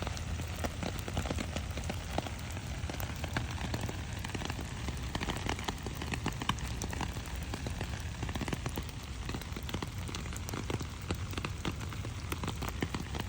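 Steady rain falling, an even patter of many small drops striking plants and other surfaces.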